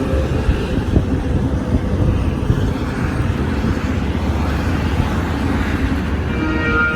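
Etihad Rail train running past with a steady, loud rumble.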